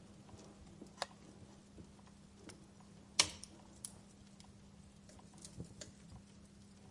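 Wood fire crackling: sparse, irregular snaps and pops from burning logs, with one loud sharp pop about three seconds in.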